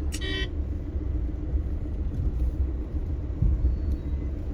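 Steady low rumble of a car on the move, with a short horn beep right at the start.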